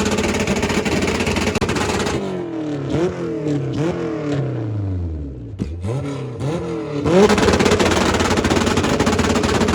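Car engine revving up and down several times, its pitch sweeping high and low, heard muffled for about five seconds with a few sharp pops near the bottom of a rev. A dense, loud roar comes before and after the muffled stretch.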